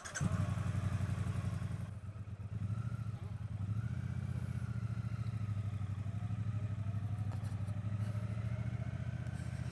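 Triumph Bonneville T120's 1200 cc parallel-twin engine running steadily at low revs, an even pulsing rumble, with a brief dip about two seconds in.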